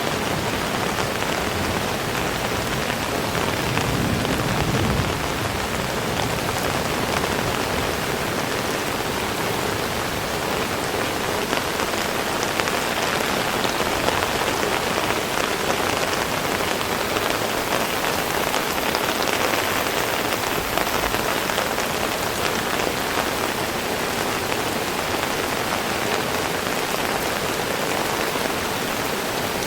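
Heavy rain falling steadily, a dense even hiss of drops on surfaces, with a brief low rumble about four seconds in.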